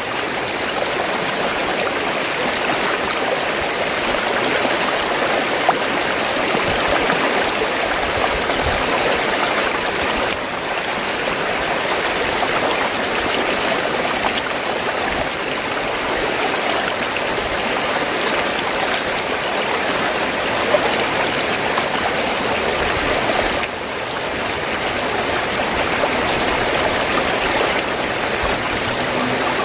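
Fast-flowing stream of water gurgling and rushing steadily, with a few brief dips in level where the recording seems to be joined.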